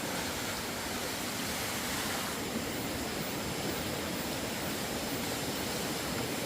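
Water rushing steadily, an even hiss-like noise with no distinct events.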